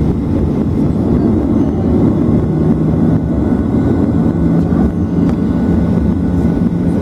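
Boeing 737 during takeoff: a loud, steady low rumble of the jet engines with a constant hum.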